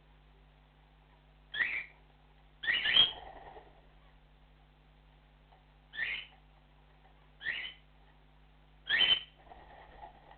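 Cockatiel giving its flock call: short, high-pitched whistled calls every second or few, two in quick succession about three seconds in, then a softer chattering near the end.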